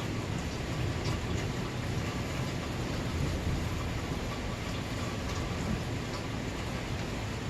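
Steady rain during a thunderstorm, with a low rumble of thunder underneath and a few faint drips ticking through it.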